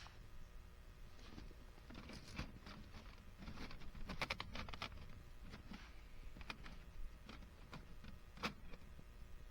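Small clicks, taps and rustling of things being handled by hand, with a quick run of rattling clicks about four seconds in.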